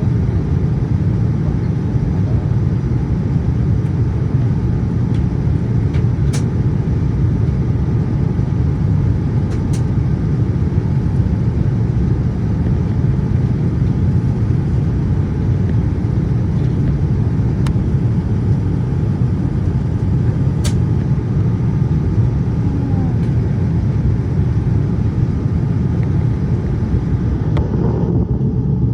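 Steady low rumble of a Boeing 787-8 airliner in flight: engine and airflow noise, with a few faint clicks.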